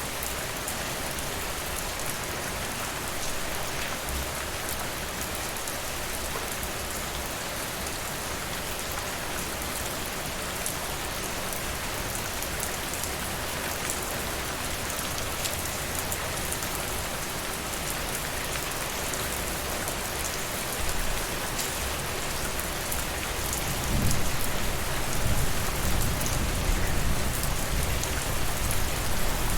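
Steady rain falling, with scattered drop ticks through the hiss. Near the end a low rumble swells in underneath and stays.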